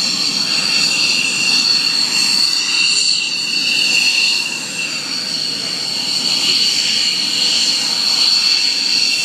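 F-16 jet engine running with a steady high-pitched whine over a continuous rushing roar.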